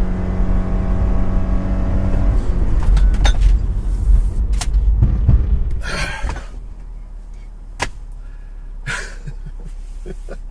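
2014 Subaru Crosstrek XV Hybrid's 2-litre flat-four boxer engine under full throttle, held at one steady pitch by its CVT, then dropping away about two and a half seconds in as the throttle is lifted at the end of the straight. Low road rumble fades as the car slows, leaving it much quieter from about six seconds in, with a few light clicks.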